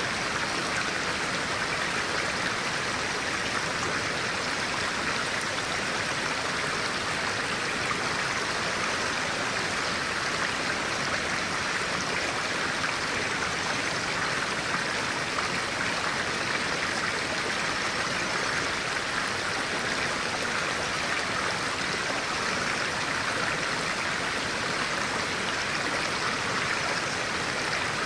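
Clear stream water running and rippling steadily, an even rushing sound with no change over the whole stretch.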